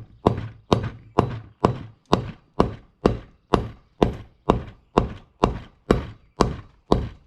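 Hammer blows driving a bearing down into a mini bike wheel hub: a steady run of about fifteen sharp strikes, a little over two a second, each ringing briefly.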